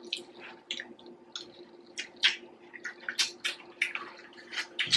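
Close-miked chewing of coleslaw and rice: irregular wet smacking and mouth clicks, several a second.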